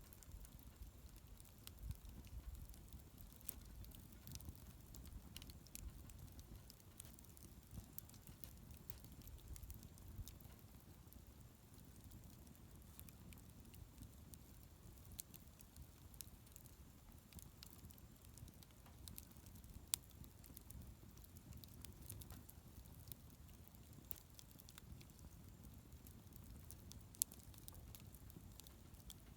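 Wood bonfire crackling faintly, with scattered small pops and two sharper pops, about two-thirds of the way through and near the end, over a low steady rumble.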